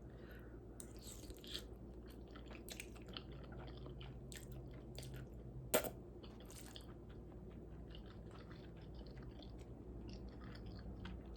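A person quietly chewing a mouthful of spicy noodles, with soft, irregular mouth clicks and smacks. One sharper click comes about six seconds in.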